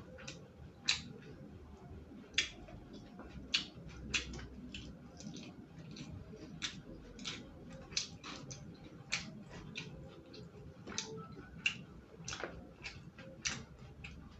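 Eating close to the microphone: irregular crunchy chewing clicks from biting and chewing raw lalapan vegetables, about two or three a second.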